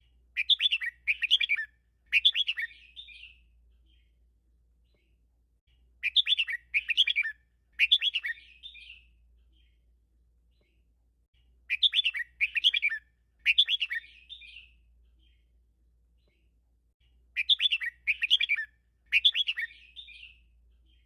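Red-whiskered bulbul singing the same phrase four times, about six seconds apart: three quick loud notes and then a softer trailing warble. It is a 'teacher' song with the tripled ending that keepers use to train caged bulbuls.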